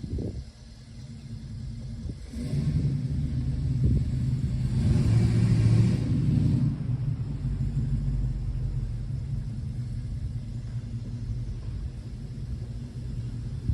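Freshly rebuilt Ford 302 V8 running as the car drives slowly. It picks up about two seconds in, is loudest around five to six seconds, then settles back to a steady low run.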